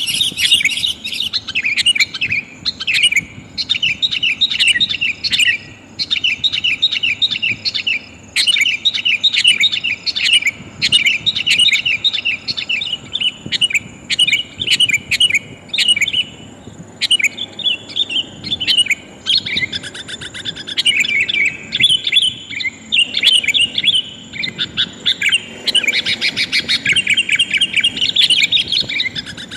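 Sooty-headed bulbul (kutilang) calling: runs of rapid, short chattering notes a few seconds long with brief pauses between, growing denser and more varied near the end. Presented as a female calling to males, used as a lure call.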